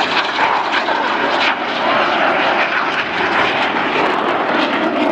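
BAE Hawk T1 jets of the Red Arrows flying past, their single turbofan engines giving a loud, steady jet rush.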